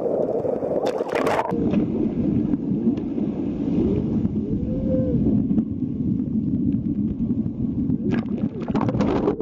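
Whale vocalizations heard underwater: a few short moans that rise and fall in pitch, over a steady rushing water noise, with some sharp clicks about a second in and near the end.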